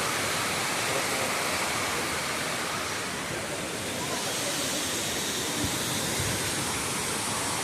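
Kutralam Main Falls, a large waterfall, with water pouring down in a constant, even rush.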